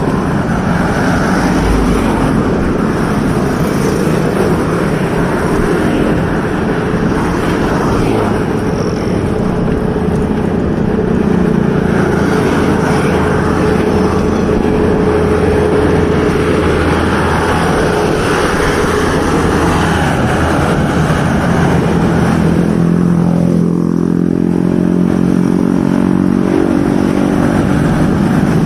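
Steady road noise from motorcycle traffic, with one engine's note coming up clearly in the last few seconds.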